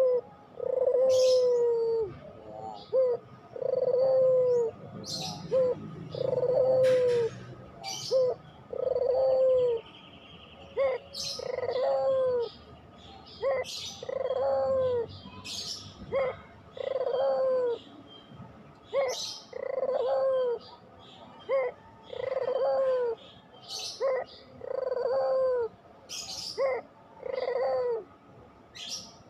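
Puter pelung, a domestic Barbary dove bred for its long coo, cooing over and over, about one phrase every two seconds, each a short note followed by a longer drawn-out one. Small birds chirp sharply in the background.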